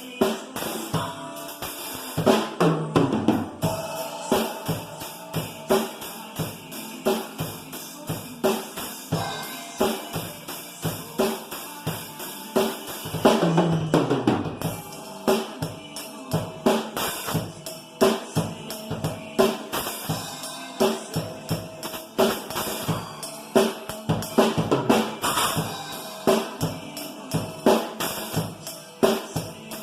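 Drum kit played in a steady, fast beat, with bass drum, snare and cymbal hits running throughout.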